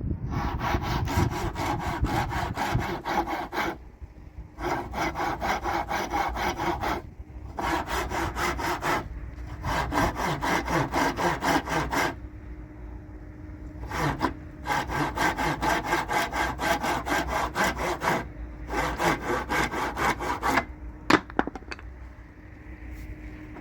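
Hand saw cutting wood in quick back-and-forth strokes, in bouts of a few seconds with short pauses between them.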